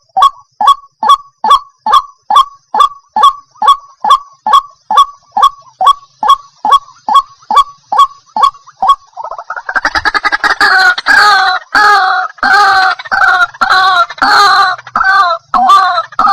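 White-breasted waterhen calling: a steady series of short honking 'kwak' notes, about two a second. About nine seconds in, the calls turn into a denser, harsher croaking chorus at much the same pace.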